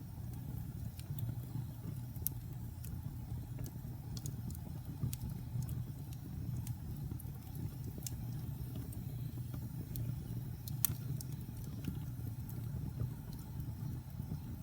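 Wood fire burning in a fireplace: a steady low rumble with scattered crackles and small pops, a sharper pop about two seconds in and another about eleven seconds in.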